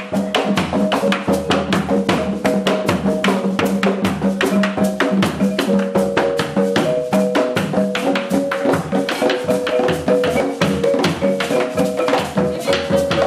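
Marimba de chonta with drums and other percussion playing a fast, dense traditional Afro-Colombian Pacific rhythm, the marimba's struck notes repeating rapidly. It starts abruptly.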